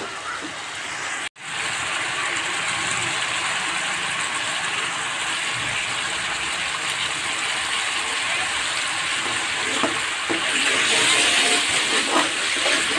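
Spice paste sizzling as it fries in oil in a wok, stirred with a metal spatula. The sound cuts out for an instant a little over a second in and grows louder near the end.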